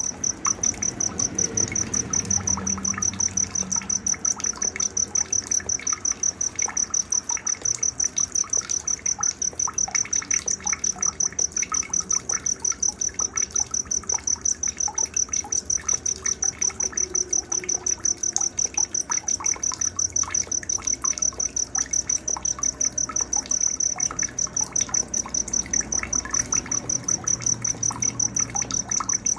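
A cricket chirping in a high, steady trill of rapid, even pulses, the loudest sound throughout, with scattered short bird calls beneath it.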